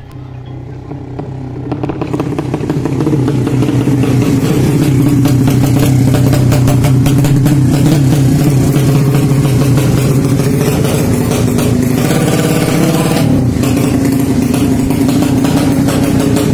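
200cc drag-bike 'sleep engine' (horizontal-cylinder motorcycle engine) running. It builds up over the first few seconds, then runs loud and steady at raised revs. There is a brief dip about thirteen seconds in.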